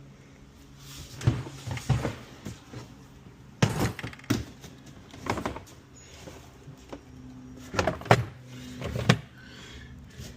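Rummaging: objects being picked up, shifted and set down, giving several bursts of knocks and clatters, with a faint steady hum underneath.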